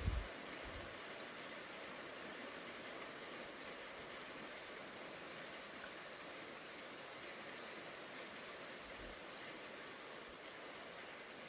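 Steady rain falling in a thunderstorm, an even hiss with no break. A few low thumps sound in the first second.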